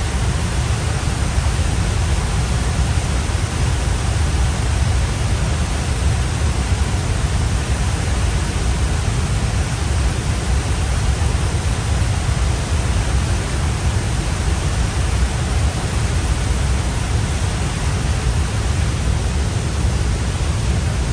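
Steady rushing noise of a waterfall, with a heavy low rumble and no change in level.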